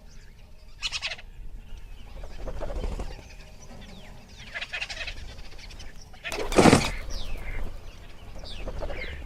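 Birds calling in short, scattered calls, some sliding down in pitch, with one loud harsh call about six and a half seconds in.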